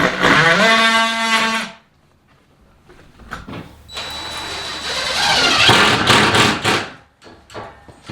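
Power drill running twice: first it spins up, rising in pitch and then holding steady for under two seconds, and after a short pause it runs again for about three seconds, noisier, with a steady high whine.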